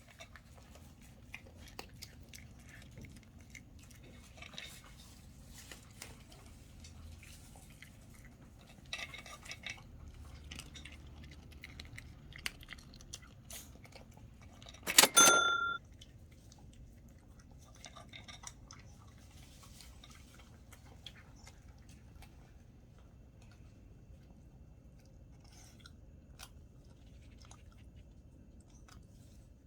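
A Maltese dog chewing and crunching its food in many small irregular crunches and clicks. About halfway through there is one brief, loud, high-pitched squeak.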